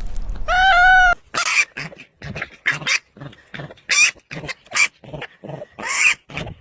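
Dog yapping: a quick run of short, high yaps, about two to three a second, after a short drawn-out call near the start.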